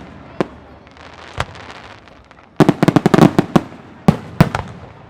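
Aerial firework shells bursting: scattered single bangs and a crackling hiss, then a rapid string of bangs about two and a half seconds in, and two more bangs near the end.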